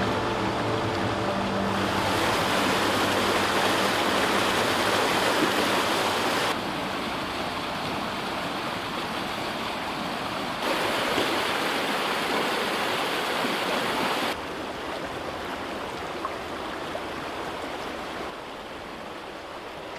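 Rushing river water: a steady noise that jumps to a different loudness several times, as if heard from different spots along the bank, and is quietest near the end.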